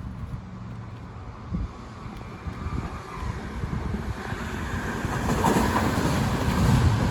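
A rail vehicle running along the track, its rumble growing steadily louder as it approaches.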